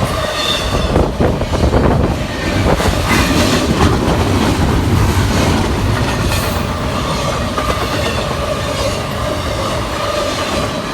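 CSX intermodal freight train rolling past close by, a loud steady rolling noise of wheels on rail with repeated clicks as the wheels cross the rail joints.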